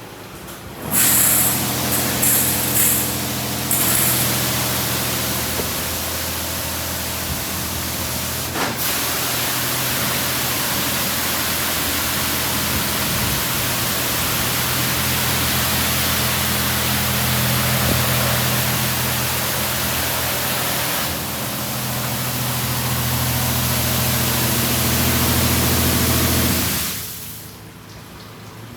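D&S IQ 2.0 touch-free car wash spraying high-pressure water over the car: a steady hiss of spray over the hum of its pump. It starts with a few short bursts about a second in and cuts off near the end.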